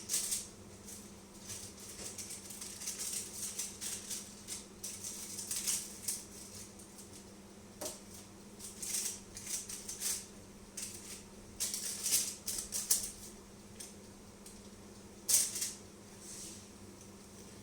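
Irregular rustling and scraping of food being handled and arranged in a pan, in short bursts of varying length, over a steady low hum.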